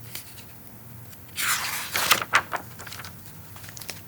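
A short rustle of paper about one and a half seconds in, followed by a few light clicks, from handling the picture book.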